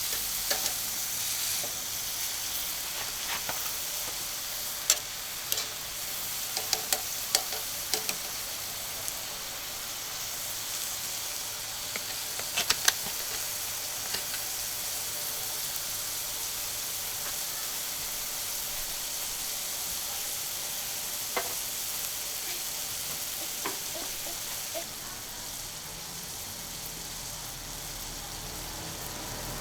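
Beef sirloin steak sizzling on a hot steel griddle: a steady frying hiss with scattered sharp pops and crackles of spitting fat.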